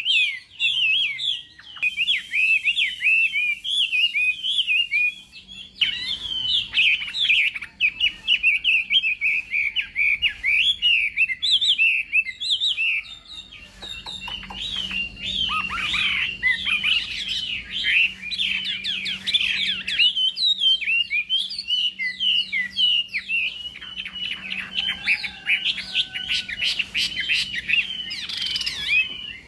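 Chinese hwamei singing a fast, unbroken stream of rapidly changing notes, with short breaks about a second in and around five seconds in.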